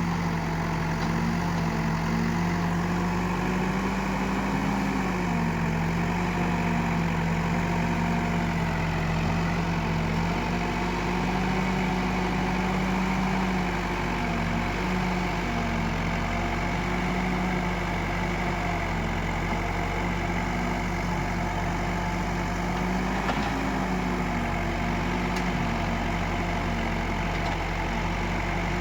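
Diesel engine of earthmoving machinery running steadily, its pitch dipping and rising a little every few seconds as the load changes.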